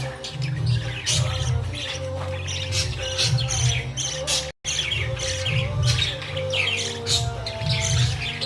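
Budgerigars chirping and chattering in quick, dense runs of short calls, cut off for a moment about halfway through.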